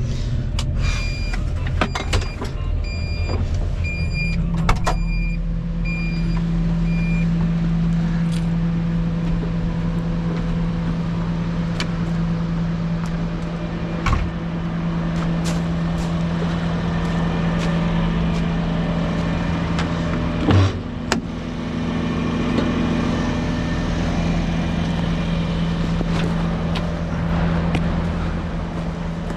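Volvo 235EL tracked excavator's diesel engine running steadily under working load, with scattered sharp knocks and clanks. A run of about six short, evenly spaced beeps sounds early on, and a louder thump comes about two-thirds of the way through.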